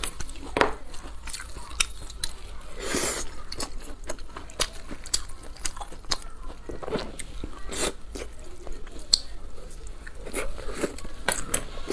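Close-miked eating sounds from a saucy noodle dish: chewing and biting with wet mouth smacks and many small crackly clicks.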